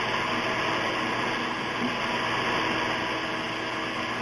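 Electric rotary file running steadily as it grinds down a Senegal parrot's nails.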